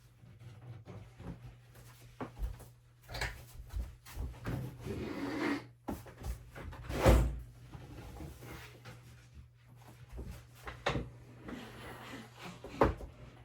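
Wooden kitchen cabinet parts being handled: scattered knocks and bumps, a sliding scrape about five seconds in, and one heavy thump about seven seconds in, with drawer and cupboard-door clatter.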